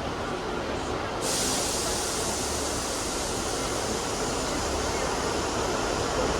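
Class 150 diesel multiple unit rumbling at the platform. About a second in, a steady hiss of escaping air starts suddenly and carries on.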